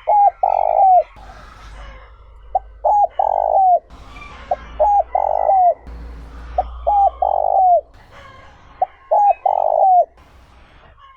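Spotted dove (cu gáy) cooing its song over and over, five phrases about two seconds apart. Each phrase is a short note, a quick double note, then a long loud coo that drops at the end.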